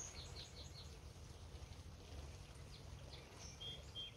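Small birds chirping with short, falling notes. Near the end one bird gives a quick run of about six short, even notes. A faint low rumble runs underneath.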